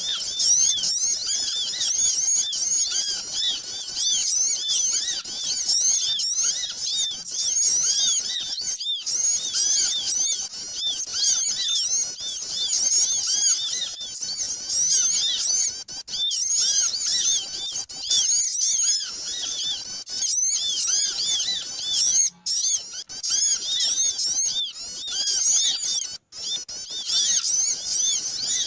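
A noisy chorus of many small birds chirping at once, a dense stream of overlapping high, quick chirps, as used in a recording to lure small birds in.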